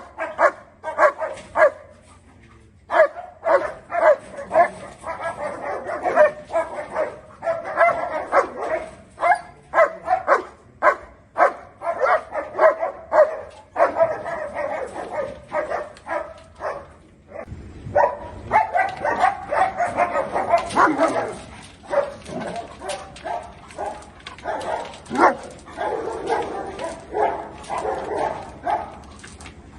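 German Shepherd barking angrily in long runs of rapid, repeated barks, with brief pauses between volleys.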